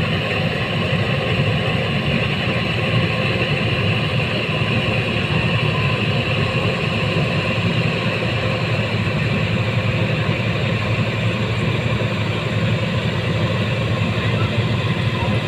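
Rice combine harvester's engine running steadily, with no change in speed.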